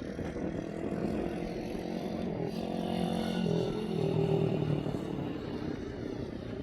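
Small Tao Tao DBX1 dirt bike engine running under way, its note rising and then dropping as the rider works the throttle and gears. It is loudest about two-thirds of the way in.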